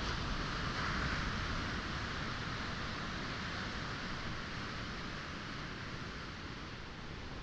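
Sea waves washing onto a pebble shore: a steady hiss that swells about a second in and slowly fades away, with low wind rumble on the microphone.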